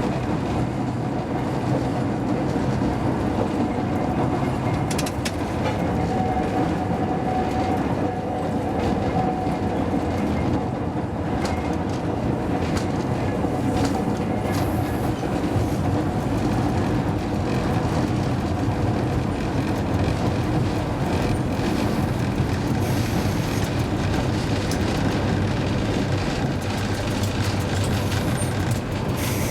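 Hakodate city tram car 530 running along its tracks, heard from the driver's cab: a steady rumble and hum from the motors and wheels, with scattered clicks and clacks from the wheels on the rails.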